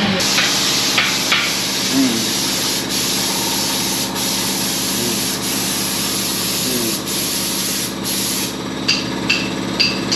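A steady rushing hiss, with a few short clicks near the end.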